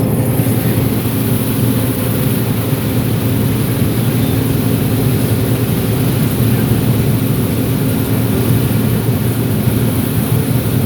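2005 John Deere 9760 STS combine running steadily: a constant diesel engine drone with several held tones from the engine and machinery.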